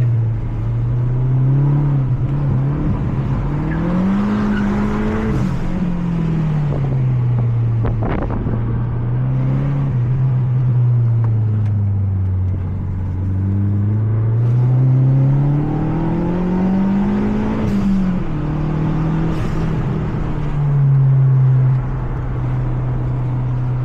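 Mazda 3 MPS's turbocharged 2.3-litre four-cylinder engine under hard track driving, pulling up through the revs and then dropping back as the car slows, twice over. There is a short sharp knock in between.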